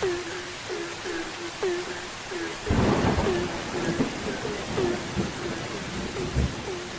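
Steady rain with frogs calling over it, short hooked calls repeating two or three times a second, and a clap of thunder about three seconds in.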